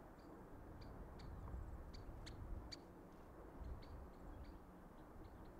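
Small birds giving scattered short, high chirps, a few louder ones about two to three seconds in, over a faint low rumble.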